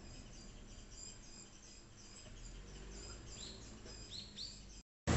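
Faint outdoor ambience: small birds chirping, a steady run of short high chirps with a few rising calls late on, over a low hum. The sound cuts out near the end, and a loud, even noise begins just as it ends.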